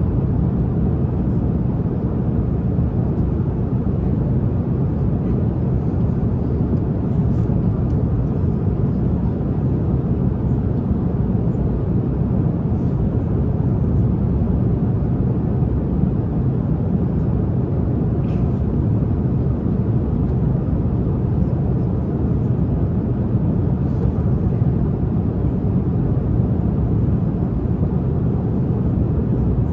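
Steady low drone of a jet airliner's cabin in flight, with a few faint clicks.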